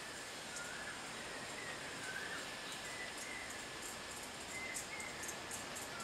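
Faint short whistled bird notes, about one a second, over a steady outdoor hiss, with high insect ticking that comes faster toward the end.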